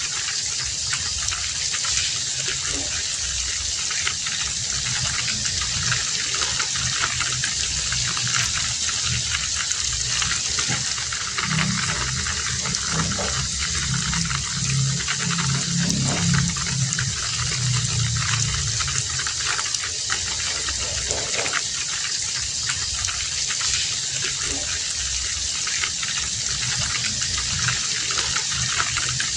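Heavy rain falling steadily, a dense even hiss. In the middle a low hum swells for several seconds and fades under the rain.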